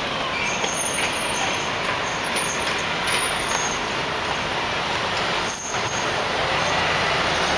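Steady city street noise of trucks and traffic running, with a few faint clicks over it.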